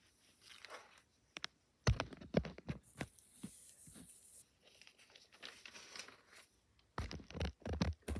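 Rustling and clicking handling noises close to the microphone: irregular short crinkles and knocks, louder about two seconds in and again near the end.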